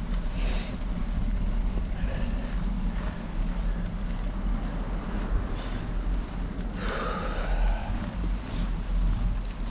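Steady low rumble of wind on the microphone of a moving bicycle rider, with an even rushing haze and a brief louder swell about seven seconds in.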